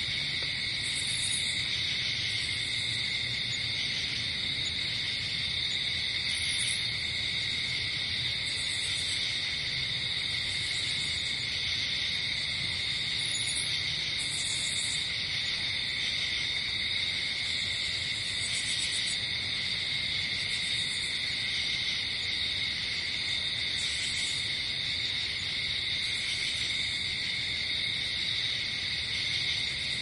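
Night-forest ambience: a steady chorus of crickets trilling in two high bands, with short, higher-pitched insect buzzes coming in every second or two.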